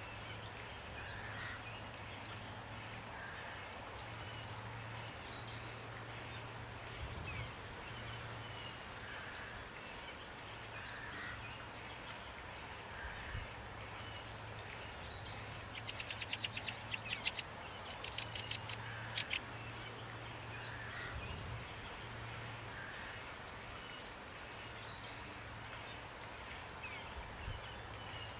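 Small songbirds chirping and whistling over a steady hiss of rain, with a fast burst of sharp, rapid notes about two-thirds of the way through. A low hum comes and goes underneath.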